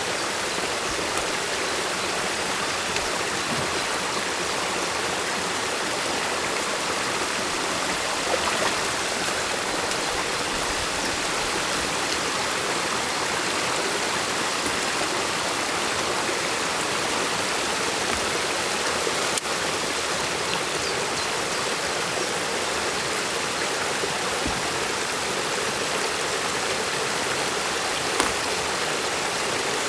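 Stream water rushing steadily through and over a beaver dam, with a couple of faint knocks, one about eight seconds in and one near the end.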